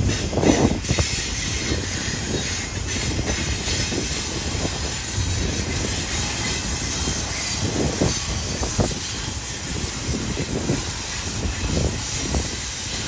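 Intermodal freight train's loaded container well cars rolling past on steel rails: a steady rumble of wheels on track with irregular clanks and knocks as the cars pass over rail joints.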